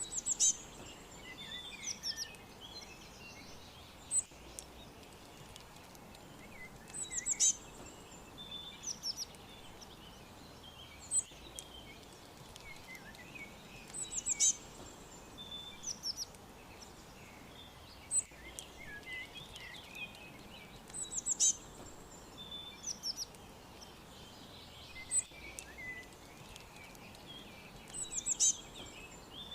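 Birds chirping: one bird repeats a short, high phrase of a few quick falling notes about every three and a half seconds, over softer scattered chirps from other birds and a faint steady outdoor background.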